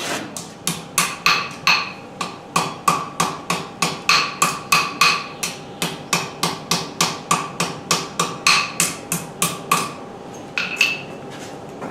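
Hammer blows forging the edges of a thin stainless steel sheet to thicken them, around thirty quick ringing strikes at about three a second, breaking off near the end for two last blows.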